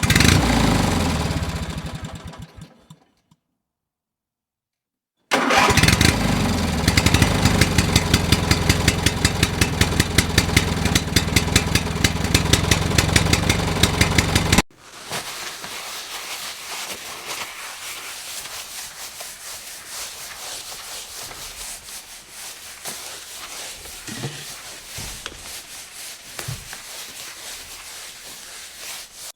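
Engine sound effects. A motor dies away into a short silence, then a louder engine starts and runs with a fast, even chugging for about nine seconds. It cuts off suddenly to a quieter rumble with a few low thuds near the end.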